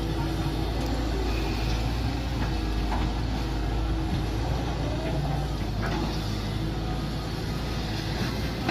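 Mini excavator engine running steadily under work, with a few short knocks.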